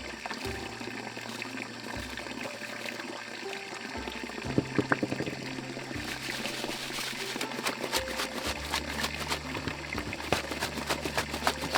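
Water pouring and splashing, with a rapid run of small clicks and knocks starting about six seconds in.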